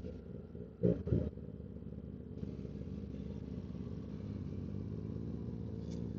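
Kawasaki ZX-10R motorcycle engine running steadily at low speed, heard from the rider's helmet microphone, with a brief louder burst about a second in and the sound slowly growing louder afterwards.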